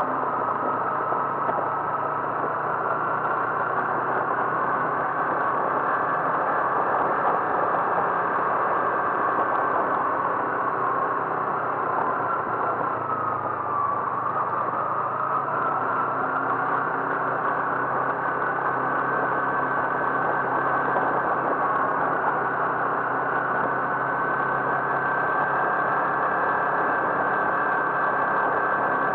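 Car engine running steadily with road noise and a steady whine that dips slightly in pitch about halfway through, then rises again.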